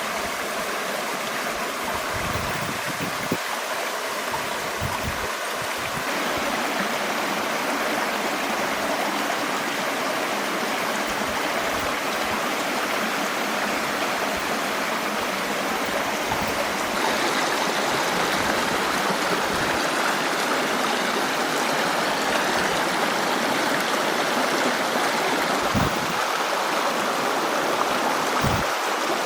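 Running water with a steady rush like a stream, growing a little louder about six seconds in. A few dull low thumps come through it.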